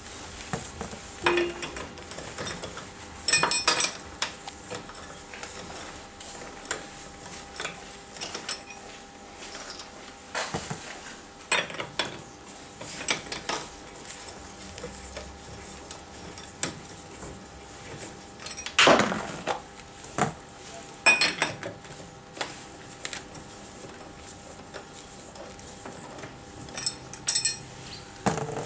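Metal hand tools and lug nuts clinking and clanking at irregular intervals, metal on metal, as a car wheel is taken off. The loudest clank comes about two thirds of the way through.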